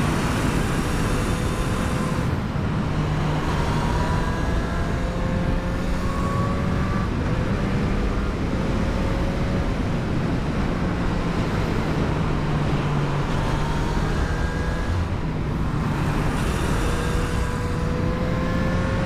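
Yamaha motorcycle engine running under way, its pitch climbing slowly in several gentle pulls, over steady wind and road noise.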